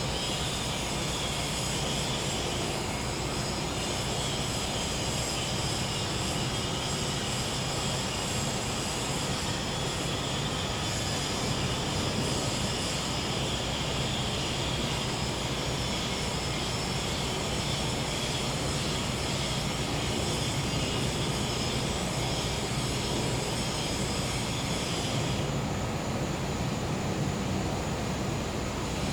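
Gas-powered generator running with a steady engine hum, with crickets and cicadas chirring on over it. Some of the high insect sound drops out near the end.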